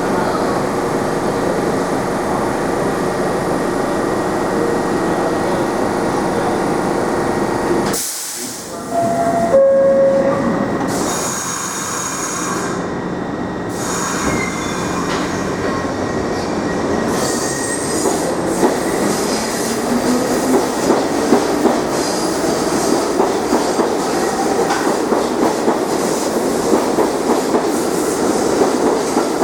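R62A subway train moving through the station: a loud steady rumble of cars and wheels, wheel clacks over rail joints, and a brief wheel squeal near the ten-second mark.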